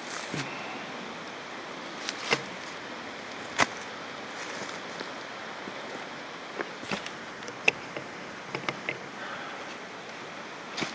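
Irregular footsteps crunching on a forest trail, with sharp cracks of twigs and debris underfoot, over a steady rushing hiss.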